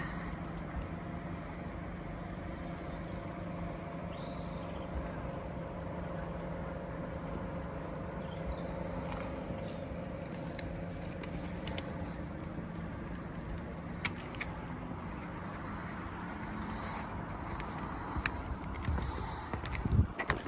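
Steady motor-vehicle noise with a constant low engine hum and a few light clicks.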